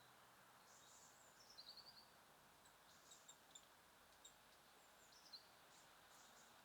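Faint small songbirds calling over a quiet steady hiss: a quick run of high chirps about one and a half seconds in, then scattered short single chips.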